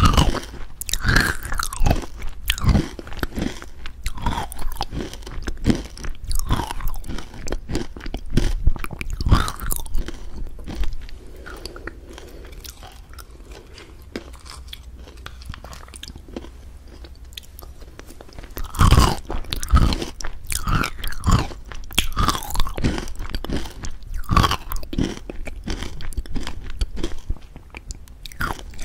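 Crunchy biting and chewing: dense runs of crackling crunches, quieter for several seconds in the middle.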